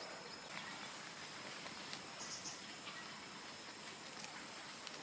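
Quiet outdoor ambience with a steady, high-pitched insect drone and a few faint scattered clicks.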